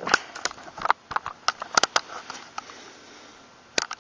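A quick run of sharp clicks and knocks in the first two seconds, then two more close together near the end: handling noise of hard objects.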